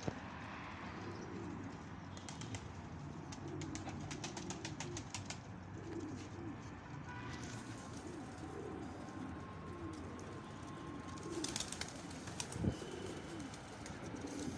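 Domestic pigeons cooing over and over, with short bursts of wing flapping as birds take off and land.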